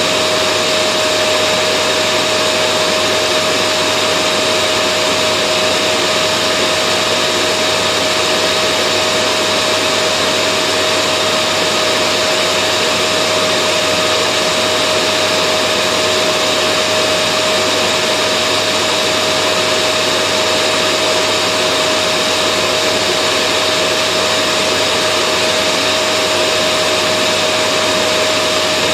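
Vacuum cleaner running steadily: an even rushing noise with a constant whine over it, unchanging throughout.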